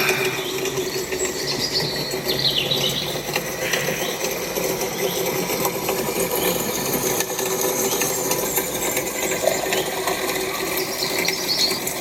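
Spring water running steadily, the continuous rush and splatter of the flow, with a few short high bird chirps about a second in, around two and a half seconds in and near the end.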